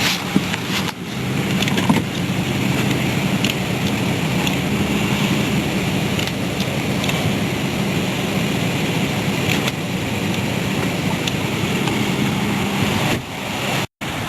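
2004 Ford Explorer engine idling steadily on a cold start, just after being jump-started. The sound drops out for an instant near the end.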